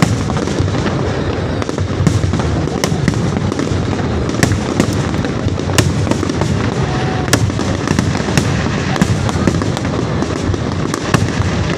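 Fireworks show going off: a continuous low rumble of bursting shells, with sharp cracks scattered throughout.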